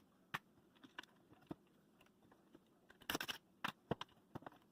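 Faint scattered clicks and taps of dishwasher parts and fittings being handled during a control board installation, with a small cluster of clicks about three seconds in.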